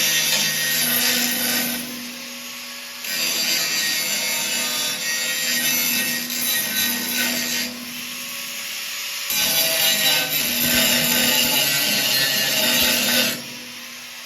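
Power tool grinding on steel in runs of a few seconds, easing off briefly about 2 seconds in, again about 8 seconds in, and near the end.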